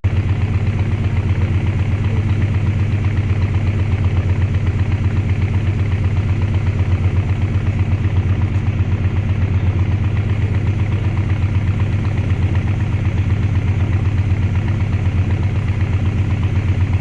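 Canal boat engine running steadily at low revs, with a strong low hum and a fast, even pulse.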